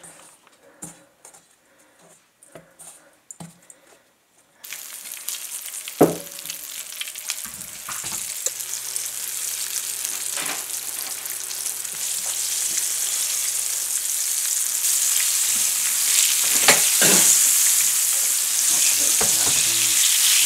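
Flour-dredged venison steaks shallow-frying in hot oil in a pan: a steady sizzle that starts suddenly about four and a half seconds in and grows louder, with a few sharp knocks against the pan. Before the sizzle, only faint taps from the metal dredging bowl.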